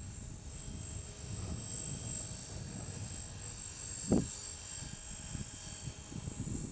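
Align T-Rex 450 Pro DFC electric RC helicopter in flight, its motor and rotors giving a steady high whine, with wind buffeting the microphone and one louder gust thump about four seconds in.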